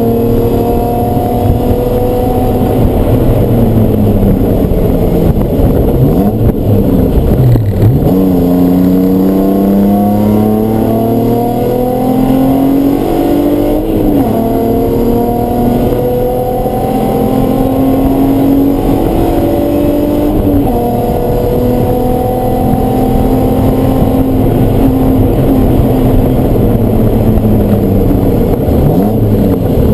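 Race car engine running hard on track. Its pitch climbs slowly through long stretches and is broken four times by a quick drop and recovery, as the car lifts, brakes and downshifts for corners.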